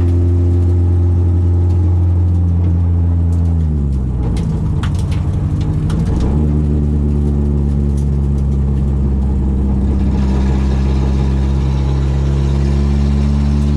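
Citroen AX 8-valve four-cylinder on twin Weber 40 carburettors running hard at a steady pitch. About 3.5 s in the pitch falls away and the sound turns rough for a couple of seconds, as when the driver lifts off. About 6 s in it rises sharply and holds steady again, with more intake and tyre hiss near the end.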